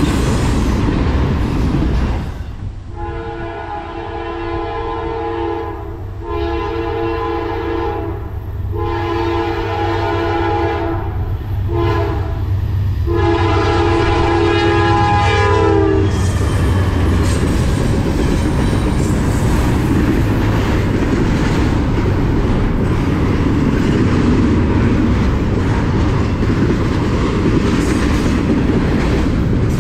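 A train's multi-tone horn sounds a series of blasts, long ones with a short one near the end like a grade-crossing signal, from about 3 s in until about 16 s in. Around it, the passing train rumbles and its wheels clatter steadily on the rails.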